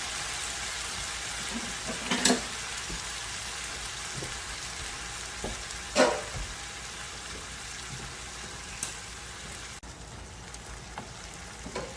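Kung Pao chicken in sauce sizzling in a hot pan, a steady frying hiss that eases off slightly, with a utensil knocking against the pan about two seconds in and again about six seconds in.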